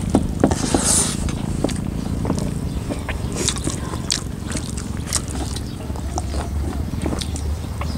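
Close-up eating sounds of people chewing buffalo curry and rice taken by hand: wet chewing and lip smacks, with many small scattered clicks and a short hiss about a second in, over a steady low hum.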